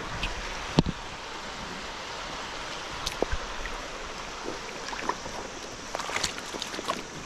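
River water running steadily, with a few sharp clicks and knocks, the loudest about a second in.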